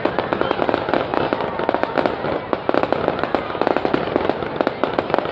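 Fireworks going off in a dense, continuous crackle of many rapid sharp pops.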